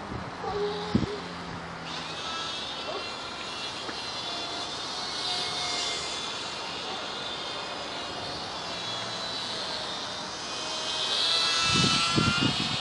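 Small electric RC plane, a WLToys Cessna-182 F949, flying: a high motor-and-propeller whine that swells as it passes close, around six seconds in and again near the end, with wind noise beneath.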